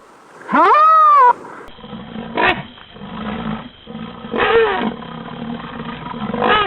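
Rhinoceros calls: a loud, high squeal that rises and falls, then after a cut a different recording of deeper, rough bellowing calls, three in a row.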